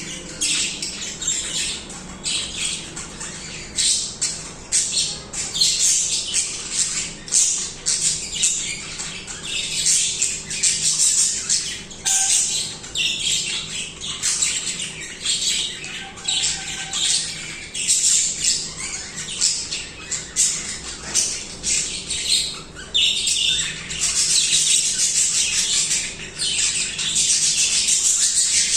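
Budgies singing: a dense, continuous chatter of many short chirps, busiest and most unbroken near the end.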